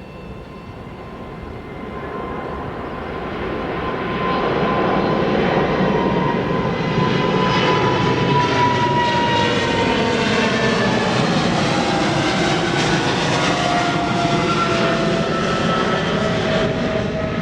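Airliner passing close by: engine noise swells over about four seconds and then stays loud, with a whine that slides slowly down in pitch as it goes past.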